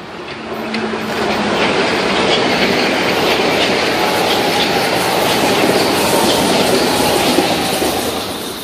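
Metro-North commuter train passing on the far track. It builds to a steady rush of steel wheels on rail with faint clicks and fades away near the end as the last car goes by.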